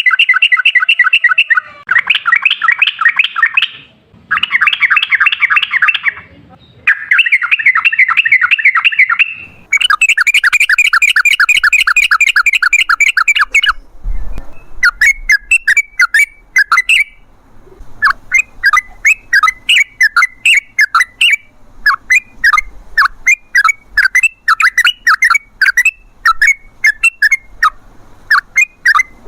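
Yellow-vented bulbul (trucukan) singing: several long, rapid chattering phrases in the first half, then a run of short sharp repeated notes at about two to three a second.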